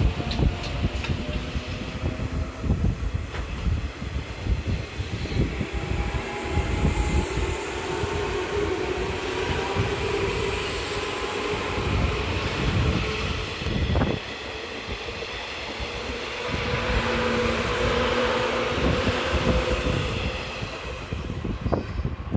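185 series electric train on the move, its motors humming with steady tones that rise slowly in pitch through the middle, over a rumble of wheels with repeated low knocks.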